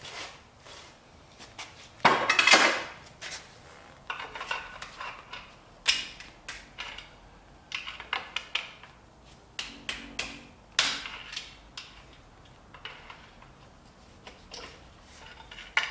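Steel engine parts and hand tools clinking and clanking as an LS V8 is torn down, with the main caps and their bolts being handled. There is a louder metal clatter about two seconds in, then irregular knocks and clicks.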